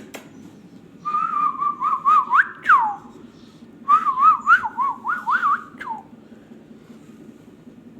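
Ringneck parakeet whistling two warbling phrases, each about two seconds long, with the pitch wobbling up and down and a quick drop at the end of each.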